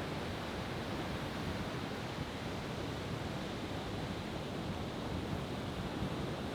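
Steady rushing noise of ocean surf, with no firework bursts.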